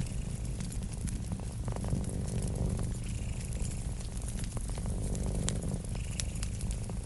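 A cat purring as a steady low rumble, over a wood fire crackling with scattered small sharp pops.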